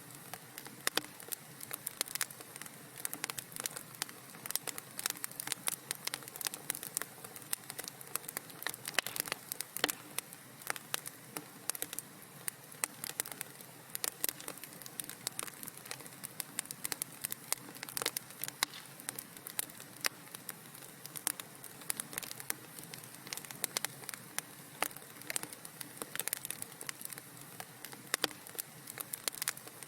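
Wood fire crackling in a fireplace: many irregular small pops and snaps over a soft steady hiss.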